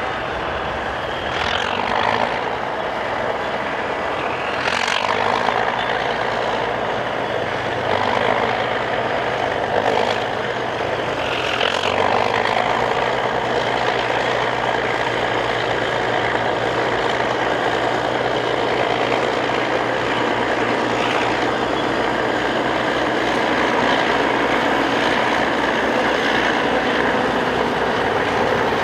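Caterpillar crawler bulldozer running, its diesel engine a steady low drone. A few brief louder surges come through in the first half.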